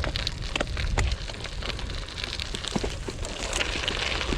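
Gravel bike tyres rolling over a loose gravel track, a steady crunching crackle of many small stone clicks, with a low rumble of wind and riding vibration on the chest-mounted camera.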